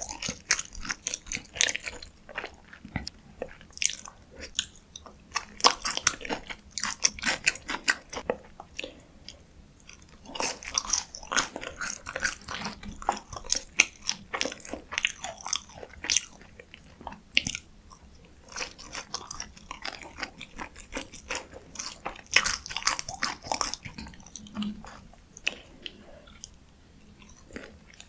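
Close-miked biting and crisp chewing of a McDonald's fast-food meal: dense runs of sharp crunches, with two short quieter pauses.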